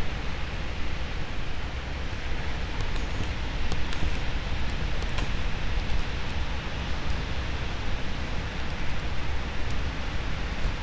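Steady wind and ocean surf noise, with wind buffeting the microphone as an uneven low rumble under a broad, even hiss of the waves.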